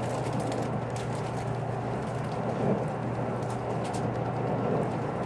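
Running noise inside a JR Kyushu Series 783 electric train car moving at speed: a steady rumble with a constant low hum and scattered light clicks.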